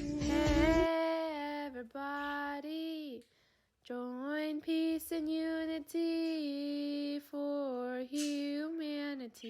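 Solo female voice singing a slow melody with long held notes and short breaks between phrases. The fuller instrumental backing cuts out about a second in, leaving the voice unaccompanied.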